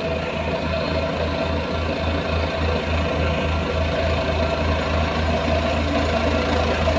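Heavy diesel engine of construction machinery running steadily, with a low, regular throb of about four pulses a second.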